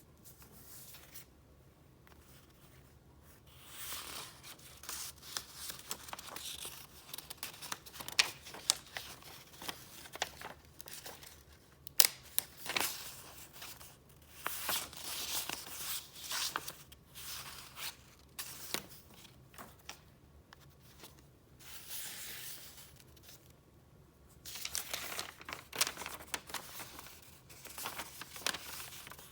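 Paper rustling and crinkling as the pages and paper items of a file are handled and flipped through, in irregular bursts with sharp taps and snaps, the loudest about twelve seconds in. It is quieter for the first few seconds and again for a short spell past the twenty-second mark.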